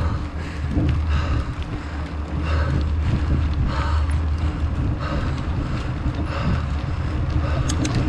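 Wind rumbling on the microphone of a mountain bike on the move uphill, with a rider's hard breathing in a steady rhythm, about one breath every second and a bit.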